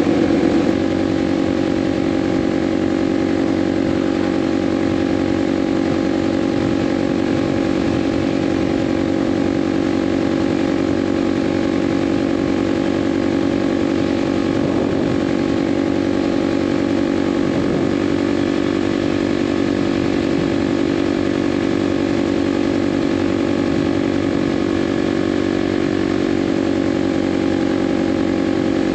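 Kawasaki KLX 300's single-cylinder four-stroke engine running at a steady highway cruise, a little louder in the first second and then holding one even pitch.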